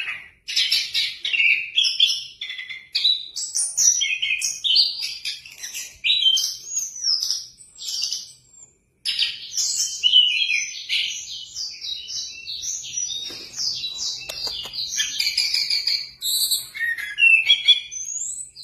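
Orange-headed thrush singing nonstop, a long run of quick, varied whistled phrases with only one brief pause about nine seconds in.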